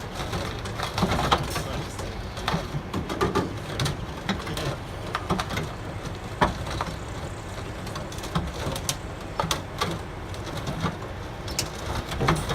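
Overturned lorry being dragged off parked cars: irregular cracks and crunches of metal and plastic over the low running of the recovery vehicles' engines.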